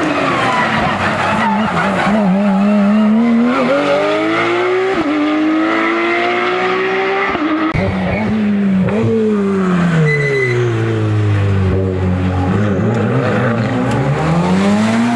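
Hill-climb race car engine accelerating hard, its pitch climbing and dropping sharply at each upshift, about 5 and 7.5 seconds in. The revs then fall away for several seconds as it slows, and climb again near the end.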